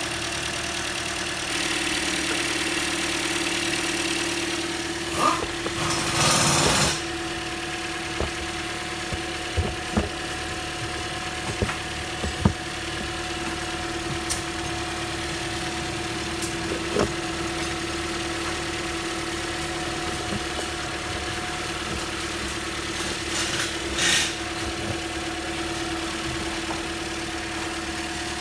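2015 Toyota Corolla four-cylinder engine idling steadily with its new intake camshaft adjuster solenoid fitted; it runs smoothly with no misfire. Scattered light clicks and a few brief hissing bursts sound over the idle.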